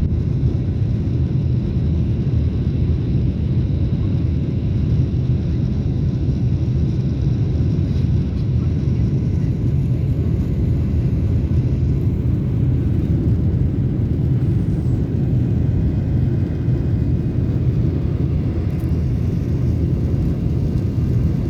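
Airliner during its takeoff climb: a steady, low rumble of engines and airflow.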